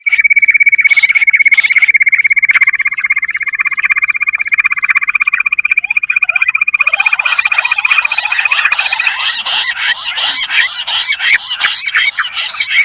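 Bush quail calls, given as the female bush quail call: a fast, buzzing trill held at one steady pitch. About seven seconds in, a dense run of chattering, squeaky calls joins and takes over.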